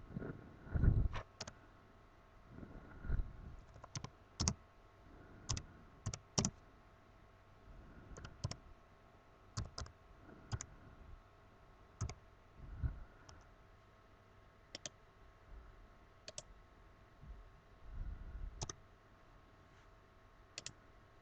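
Irregular, separate clicks of a computer mouse and keyboard, with a few soft low bumps from handling at the desk.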